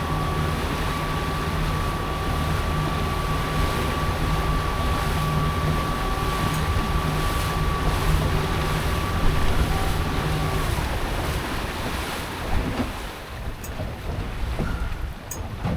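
A boat motor runs steadily with a thin whine over a low hum, then cuts out about eleven seconds in. Wind on the microphone and lapping water continue throughout.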